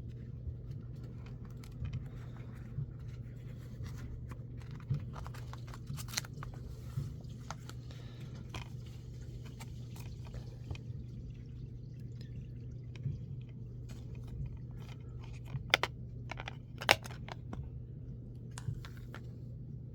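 A plastic Blu-ray case and its paper artwork being handled: scattered small clicks, taps and crinkles over a steady low hum, with two sharper clicks about three-quarters of the way in.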